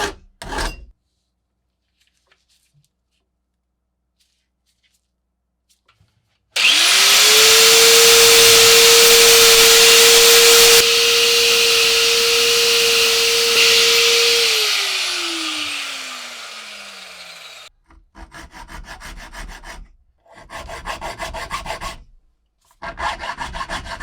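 A small electric power tool runs with a steady high whine and harsh abrasive noise for about eight seconds, then is switched off and spins down, its pitch falling. Short, rhythmic hand rubbing strokes come just before it and in several bursts after it.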